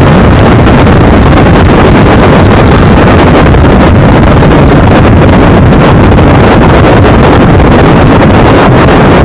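Heavy wind buffeting the microphone of a moving vehicle, a loud, steady rushing roar that stays near full level.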